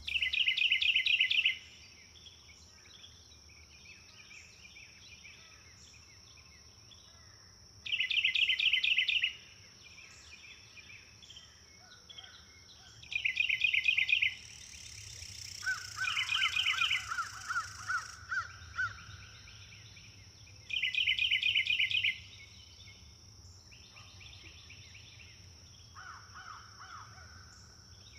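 Birds calling in repeated bursts of rapid chattering notes, five times over, with quieter calls in between. A steady thin high whine runs underneath.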